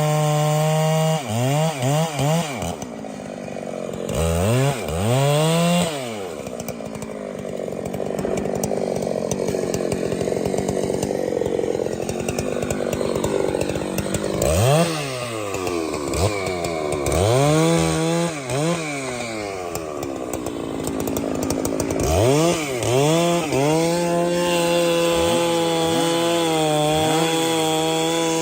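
Two-stroke chainsaw idling, then revved up and down repeatedly and bogging under load as it cuts into wood, with a long cutting stretch in the middle; it settles back to a steady idle near the end.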